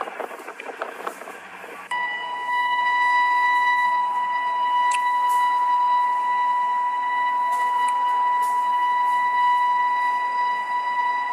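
A train clattering past along the rails, then cut off about two seconds in by a single long, steady high-pitched tone that does not change pitch.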